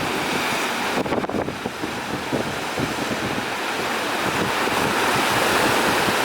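Strong gusting wind buffeting the microphone over the rush of rough sea waves. The wind dips briefly about a second in and builds toward the end.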